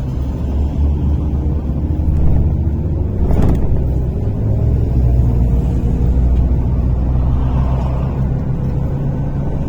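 MAZ-103.485 city bus driving, heard from inside the passenger cabin: a steady low engine and road rumble, with a faint whine rising in pitch as it gathers speed. One sharp knock comes about three and a half seconds in.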